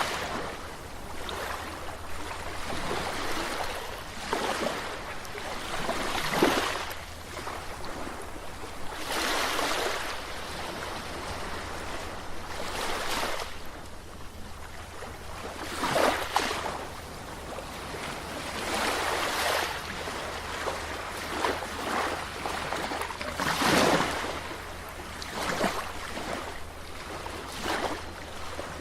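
Sea waves washing in and breaking, surging every few seconds with the biggest breaks about six, sixteen and twenty-four seconds in, over a steady low rumble.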